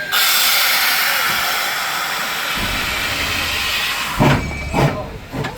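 1920 2-8-0 steam locomotive #18 letting off a sudden loud rush of hissing steam. A low rumble comes in partway through, then three heavy exhaust chuffs about half a second apart near the end.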